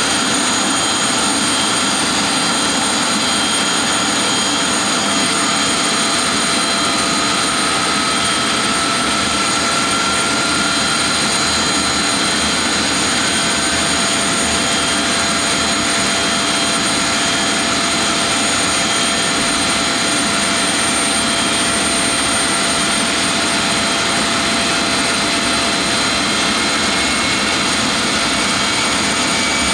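Avro Vulcan bomber's Rolls-Royce Olympus turbojets running, a loud steady jet roar with high, steady whines; one or two whine tones rise slowly in pitch partway through.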